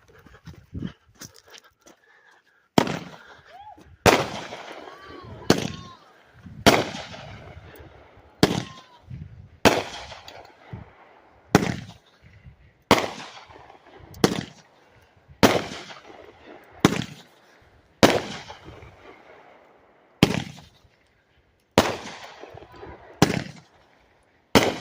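A Phantom Fireworks Popo Magnet 36-shot firework cake firing. After a few seconds of faint crackle, single loud shots come at a steady pace of about one every second and a half, each trailing off before the next.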